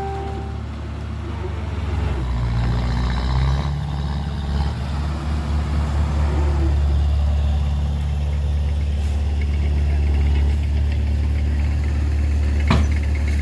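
Heavy diesel engine running steadily at low revs, with a sharp click near the end.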